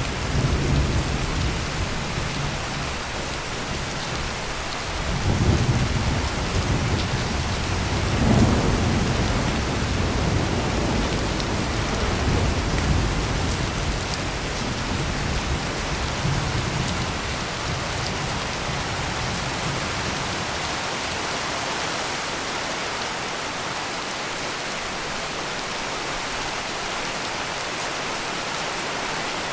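Steady heavy rain with low rolling thunder, the rumbles strongest in the first ten seconds and dying away in the second half, leaving the rain alone.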